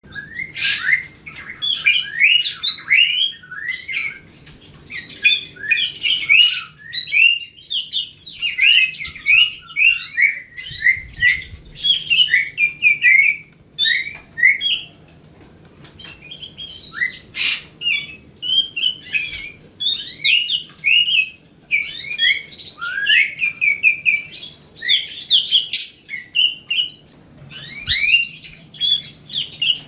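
Grey-cheeked bulbul (cucak jenggot) singing in the chattering 'riwikan' style: fast runs of short chirps and quick up-and-down whistled notes, with a pause of about two seconds midway.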